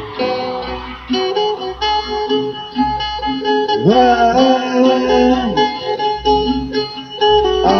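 Live band playing an instrumental passage: guitars over a steady low beat about once a second, with a long note that slides upward about four seconds in.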